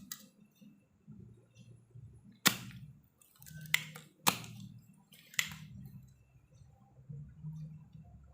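Four sharp snaps spread over a few seconds, each with a short ring-out, over a faint low hum.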